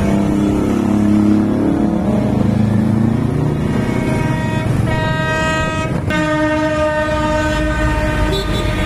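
Motorcycle engines revving, then a loud, steady horn blast with a brief break about six seconds in.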